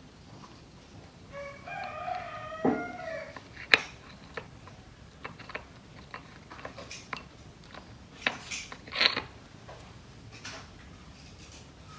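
A rooster crows once, a call of about two seconds starting about a second and a half in. Sharp clicks and scraping handling noises follow.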